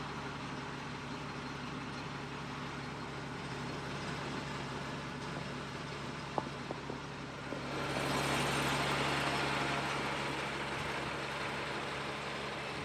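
Military truck's Cat 3126B turbo diesel idling steadily. A few light clicks come about six seconds in, and about two seconds later a louder hiss rises and slowly fades.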